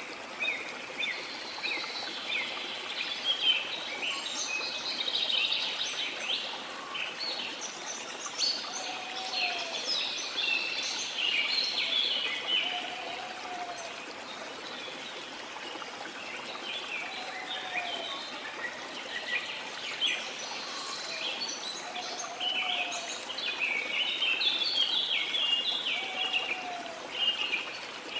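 A dense chorus of many birds chirping and singing over the steady rush of a waterfall, with a short, low, sliding call repeating about every four seconds.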